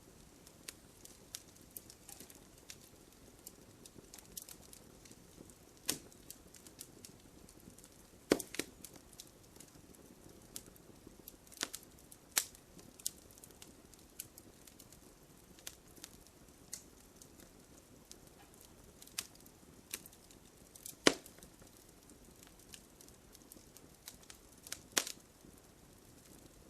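Wood campfire crackling: irregular sharp pops and snaps over a low, steady sound of burning, with the loudest pops about 8 and 21 seconds in.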